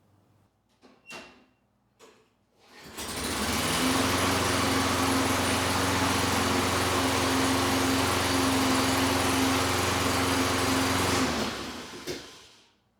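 Toro Recycler lawn mower's Kohler single-cylinder engine starting about three seconds in, running steadily, then winding down to a stop near the end. A couple of light knocks come before it starts.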